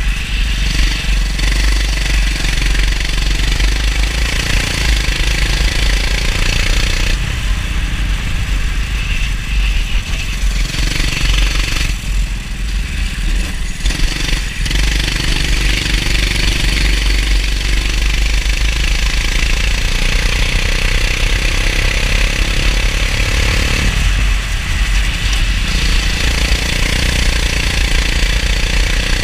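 Racing kart engine running hard, its pitch climbing and falling repeatedly as the throttle opens and closes, over a constant heavy low rumble. It eases off briefly about halfway through and again near the end.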